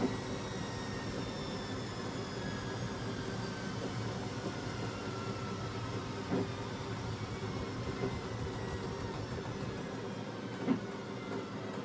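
Beko WMB 71643 PTE washing machine coasting down: a faint whine that slides slowly lower in pitch over a steady mechanical hum, with a few soft knocks from the machine.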